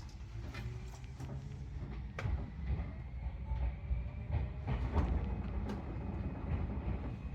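Electric train heard from on board as it pulls slowly away. A low rumble grows louder, a faint motor tone rises, and the wheels give occasional sharp clacks over rail joints.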